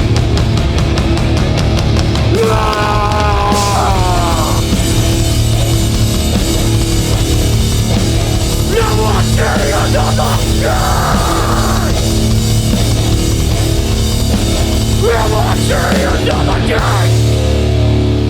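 Live hardcore punk band playing loud and without a break: distorted electric guitars, bass and drums.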